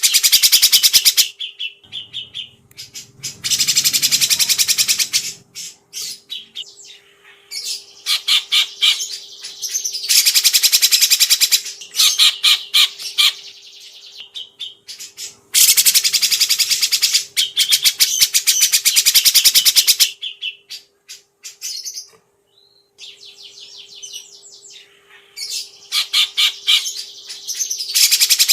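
Songbird singing long, loud, very rapid high-pitched trills lasting a few seconds each, broken by short pauses and scattered quieter notes. A faint steady hum runs underneath.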